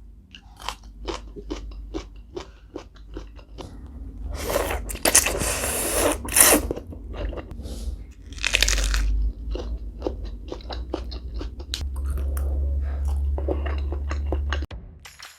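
Close-miked eating of instant noodles and prawns: chewing with many quick wet clicks, broken by longer, louder rushing bursts about four to seven seconds in and again around nine seconds. A steady low hum sits underneath and stops shortly before the end.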